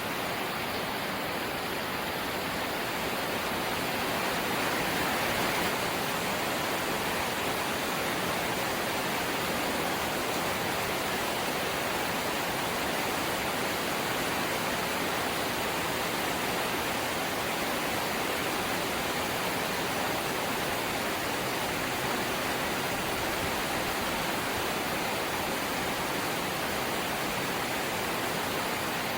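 Rain falling on a corrugated zinc (seng) house roof: a dense, steady hiss of countless drops on the metal sheeting, swelling slightly about five seconds in.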